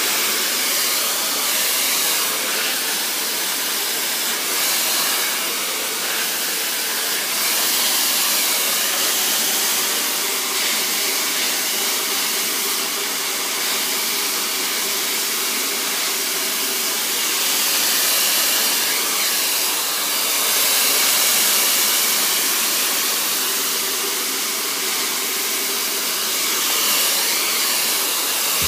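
Handheld hair dryer blowing steadily for a blow-dry with a brush, a constant airy hiss that rises and falls slightly in loudness.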